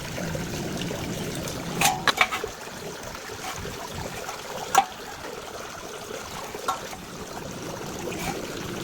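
Welding arc crackling steadily, with a few sharp clicks or taps: a short cluster about two seconds in and single ones later.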